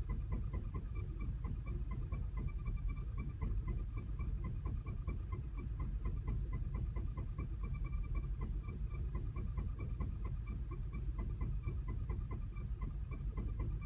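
2010 VW CC engine idling roughly and unevenly at low rpm with a quick, steady ticking over the low rumble, while its check engine light flashes.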